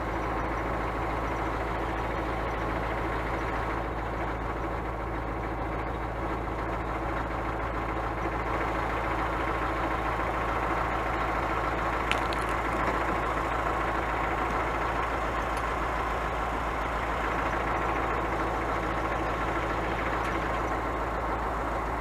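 Scania truck's diesel engine running steadily, with one short click about twelve seconds in.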